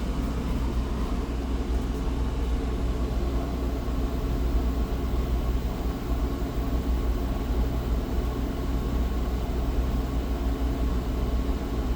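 Dometic Penguin II 13.5k rooftop air conditioner running with its fan on high and the ceiling dump vent closed, heard from inside the RV: a steady blower and compressor noise with a low hum, no change throughout.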